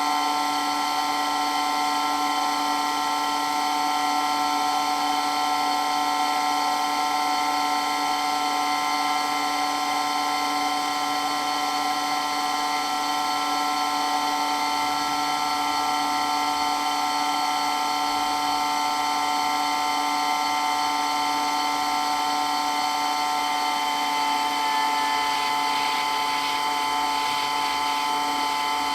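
Water pump running steadily with a loud, high whine made of several steady tones.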